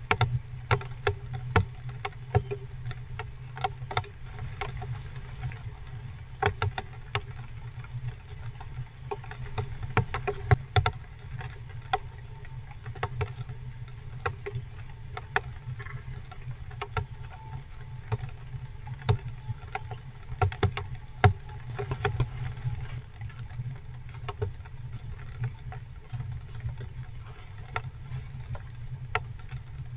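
Raindrops tapping irregularly on the wooden nest box, heard from inside the box, over a steady low hum.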